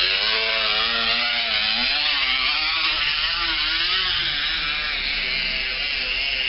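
A bicycle wheel spinning with a flattened drink container wedged against the tyre at the brake, giving a continuous motorbike-like buzzing rattle. Its pitch rises and falls as the wheel speeds up and slows.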